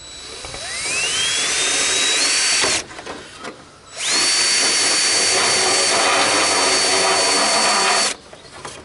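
Cordless rotary tool with a deburring bit spinning up with a rising whine and grinding at a mower hood's grille, stopping briefly, then spinning up again quickly and running at a steady high whine for about four seconds before stopping.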